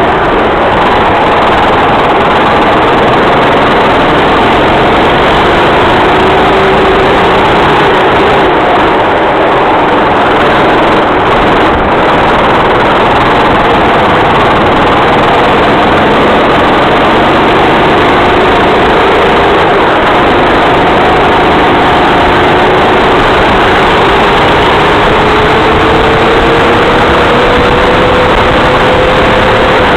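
Racing kart engine running hard, its pitch rising slowly and dropping back several times as the throttle is worked through the laps. A dense hiss sits over it throughout.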